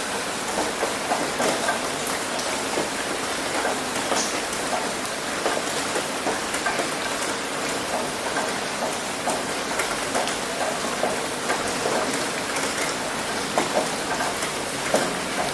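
Heavy rain hitting a roof: a steady hiss of rainfall with many irregular drops patting and ticking on the surface.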